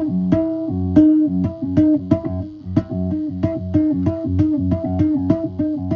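Marlin Sidewinder electric guitar played through an amp: a steady run of picked low notes, about three or four a second. It is being played to test a freshly raised pickup for buzz.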